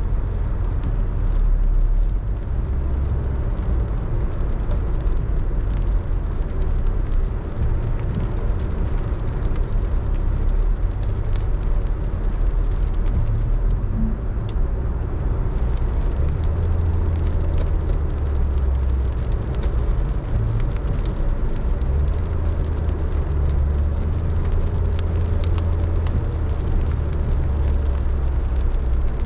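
A car being driven in the rain: a steady low rumble of engine and tyres on the wet road, with faint scattered ticks.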